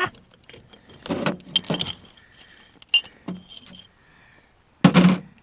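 Metal tools and parts clinking and rattling as they are handled, a series of short clicks and jingles with a louder clatter near the end.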